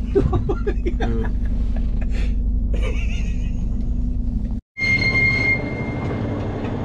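Railway carriage noise during a bogie exchange for the change of track gauge. A steady low rumble of the stationary train is followed by a high, steady metallic squeal over a low hum, which fades out over about a second.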